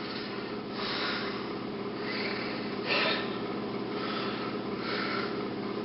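Soft breathy puffs and sniffs close to the microphone, one stronger about three seconds in, over a steady low hum.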